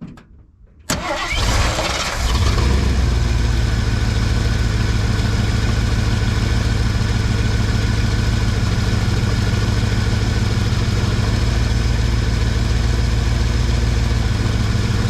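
1979 Ford F150's carbureted V8 started about a second in, catching almost at once and then idling steadily, just after a suspected vacuum leak at the carburetor was plugged.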